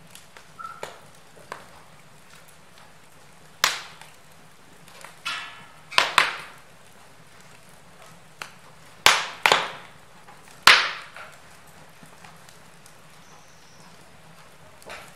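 Wood logs burning in a fireplace, crackling, with about eight or nine sharp pops at irregular intervals over a low steady hiss.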